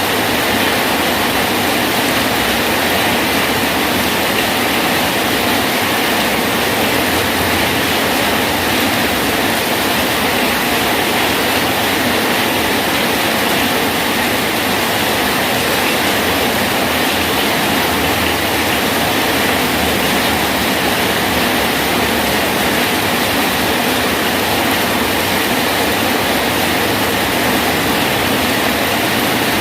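Rain falling steadily on a bridge: a loud, even hiss that holds without a break.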